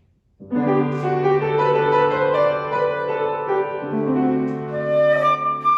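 Piano playing a slow introduction of sustained chords over a held bass note. A long held higher note comes in near the end.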